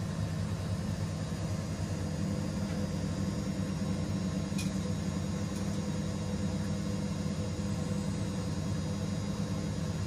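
Washing machine running with a steady low hum, its motor turning the drum evenly, and one faint tick about four and a half seconds in.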